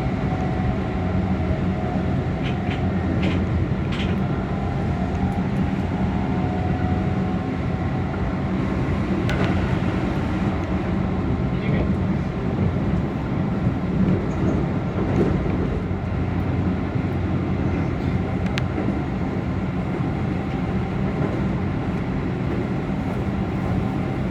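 Keihan limited express electric train running, heard from the driver's cab: a steady rumble of motors and wheels on rail with a low hum, and a few scattered clicks.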